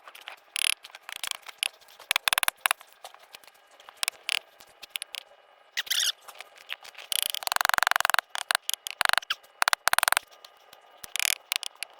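Fast-forwarded work sound from a time lapse of block laying and levelling: a rapid, jerky jumble of high squeaky chirps, clicks and scrapes, with a denser squeaky stretch a little past halfway.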